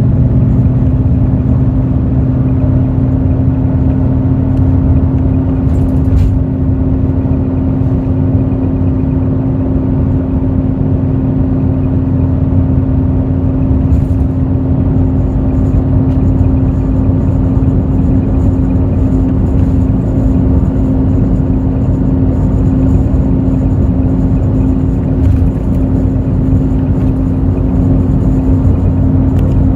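Hino J08E-VD inline-six diesel of a Hino RN8JSVU intercity bus running steadily at an even speed, heard inside the cabin over a low road rumble, with a steady whine held at one pitch. A few faint clicks come through now and then.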